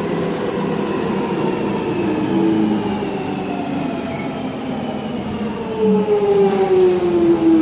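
Alstom 1996 Stock tube train running, heard from inside the carriage: the rumble of the wheels under a motor whine that falls steadily in pitch as the train slows. A louder falling whine comes in near the end.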